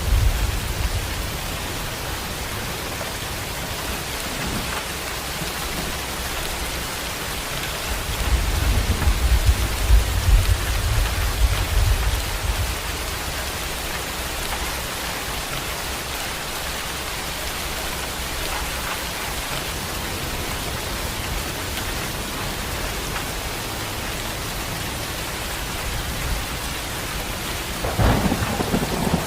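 Heavy rain falling steadily, with rolling thunder rumbling at the start, again about eight to twelve seconds in, and once more near the end.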